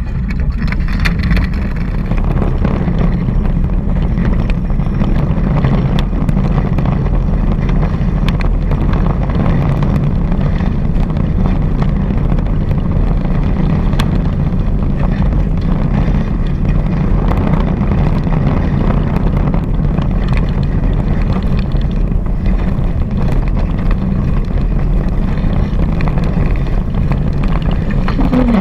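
Steady, loud wind rumble on the microphone mixed with rushing water, as heard aboard a Hobie 16 catamaran under sail.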